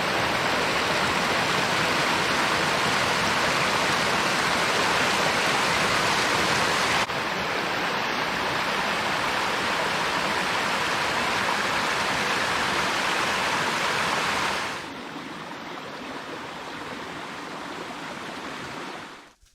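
Steady hiss of heavy rain. It drops in level in two sudden steps, about a third of the way through and again about three-quarters through, then cuts off at the end.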